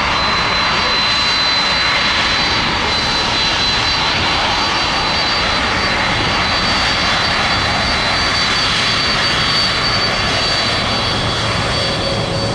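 Jet airliner's engines running loud and steady at close range, a broad rushing noise with a thin high-pitched whine held over it.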